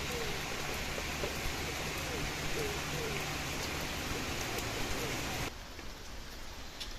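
Rain falling steadily: an even hiss with scattered sharp drip ticks. About five and a half seconds in, the sound cuts abruptly to quieter rain.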